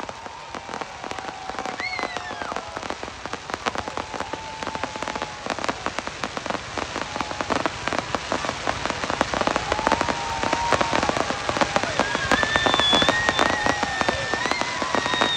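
Fireworks display: a dense, rapid crackle of many small pops from crackling white star shells, building louder towards the end.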